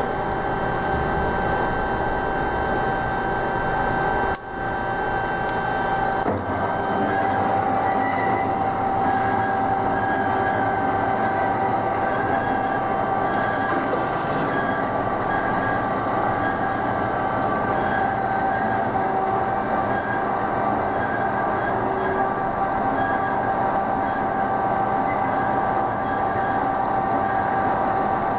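DoALL C916SA horizontal band saw running, its blade and drive giving a steady whine over mechanical noise. The sound dips briefly about four seconds in and changes character about six seconds in, then runs on steadily.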